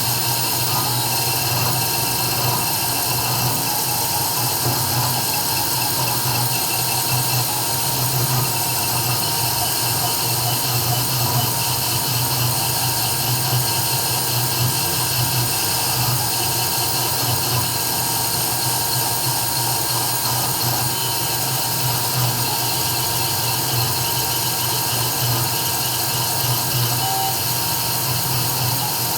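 CNC 3040 router engraving: its spindle runs steadily with a high, even whine over a low hum.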